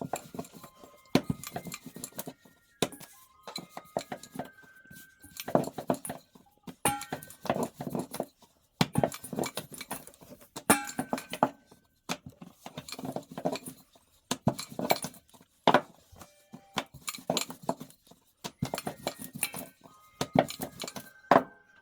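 Intermittent clinks, knocks and handling noises of dishes and utensils, some with a short ringing tone.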